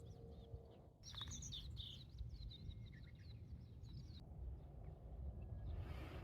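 Small birds chirping in quick short calls, over a low steady outdoor rumble.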